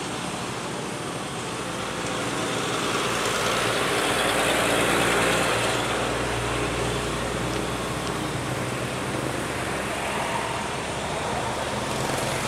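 Motor vehicle traffic: road noise swells as a vehicle passes close by about five seconds in, then eases to a steady engine drone.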